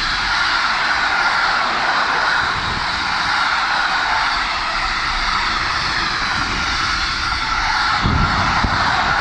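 A train running close by: a loud, steady running noise with a faint high whine, and a low rumble that swells near the end.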